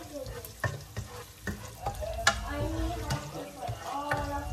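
Garlic, ginger and onion sizzling as they sauté in a pot, stirred with a spatula, with several sharp knocks of the spatula against the pot.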